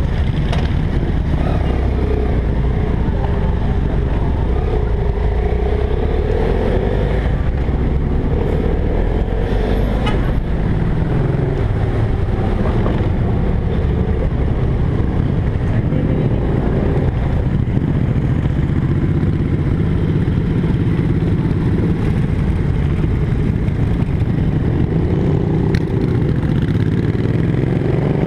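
BMW F800GS parallel-twin engine running as the motorcycle pulls away and rides slowly through traffic, its pitch stepping up and down with throttle and gear changes and rising near the end.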